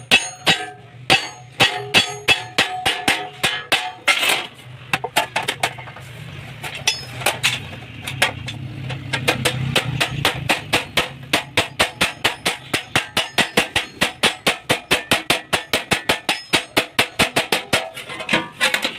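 Hammer blows on sheet metal, struck in quick runs and then in an even rhythm of about four a second, over a low steady hum.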